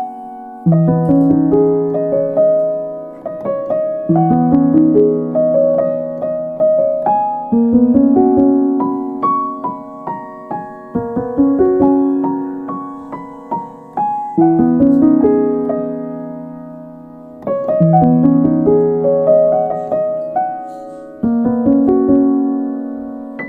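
Gentle solo piano background music, phrases of struck notes that ring and fade, starting again every three to four seconds.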